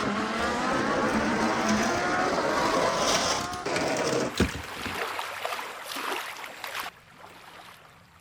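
A vehicle engine revving, its pitch climbing steadily for about three and a half seconds before it drops back and fades away.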